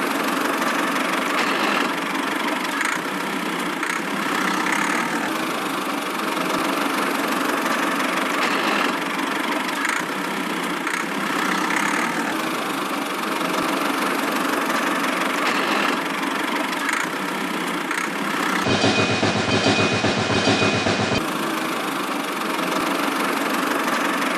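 A miniature model construction vehicle's small motor running steadily, with a short change in the sound about 19 seconds in.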